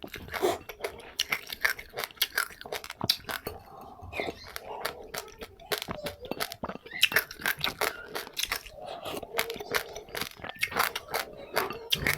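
A person chewing seeds with passionfruit pulp: a dense, irregular run of sharp crunching clicks as the seeds crack between the teeth, with wet mouth sounds between them.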